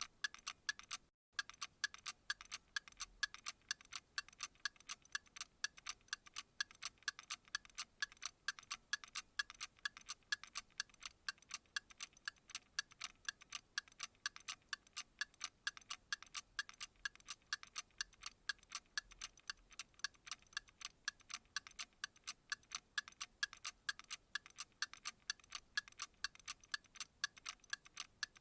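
Clock ticking: sharp, even ticks, several a second, with a momentary dropout about a second in.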